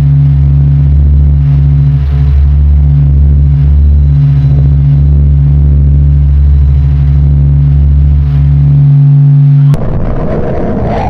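Sonified spacecraft recording of a space object: a loud, steady, deep drone made of a few low held tones with a faint pulsing. It cuts off abruptly near the end and gives way to a rough, noisy rumble.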